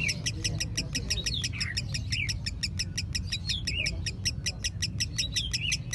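A songbird of the kind Indonesian keepers call 'mentil' singing one long unbroken run of sharp, high repeated notes, about eight a second, with a few short chirps mixed in.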